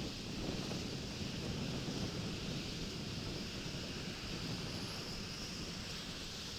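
Wind buffeting an outdoor nest-camera microphone: a steady, rumbling rush of noise with no distinct calls or knocks.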